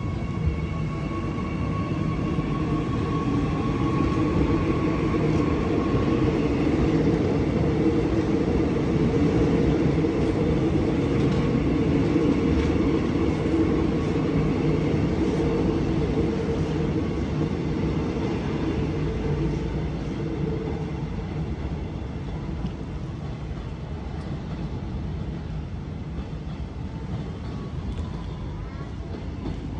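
Electric multiple-unit trains running past the platform: a steady rumble of wheels and motors swells to its loudest about ten seconds in and fades away over the following ten seconds. A steady high motor whine sounds over the rumble in the first few seconds.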